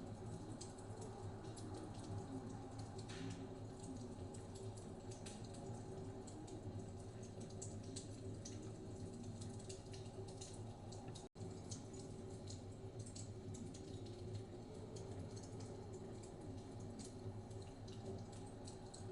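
Wood fire in a fireplace crackling, with frequent small sharp pops over a steady low rumble. The sound cuts out for an instant about eleven seconds in.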